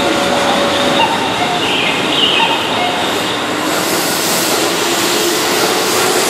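Keihan 6000-series electric commuter train running past along the platform: a steady loud rumble and hiss of wheels on rail, with faint humming tones, growing brighter and hissier a little over halfway through.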